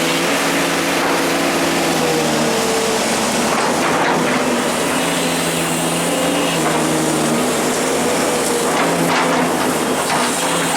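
Excavator's diesel engine running steadily, its pitch shifting slightly as the machine works, with a few knocks about four seconds in and again near the end.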